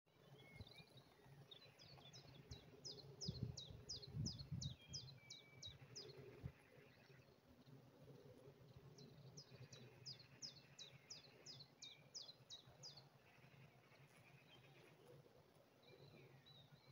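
A songbird singing two phrases, each a quick run of about a dozen short, high, downward-sliding notes at roughly four a second, with softer chirps between them. A few low rumbles come about three to five seconds in.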